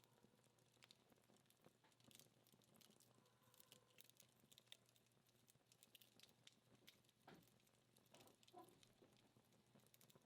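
Faint, irregular crackling and ticking of a wood fire's burning-down logs and embers, small scattered pops with no steady rhythm.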